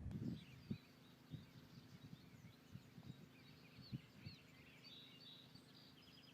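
Faint outdoor birdsong: several birds chirping in short, quick phrases, with a few soft low knocks now and then.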